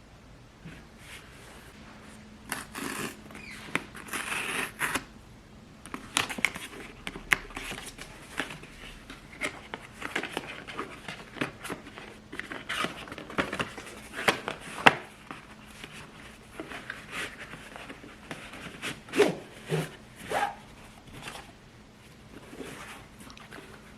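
Paper being handled close up: rustling, crinkling and tearing in irregular strokes and short bursts, typical of wrapping paper and packaging, over a faint steady low hum.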